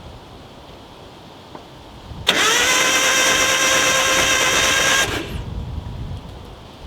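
Starter motor of a 1986 Nissan 720's four-cylinder engine cranking it over with the spark plugs out for under three seconds: a steady whine that rises briefly as it spins up, then cuts off. It sounds bad, and the owner suspects the starter had been stuck.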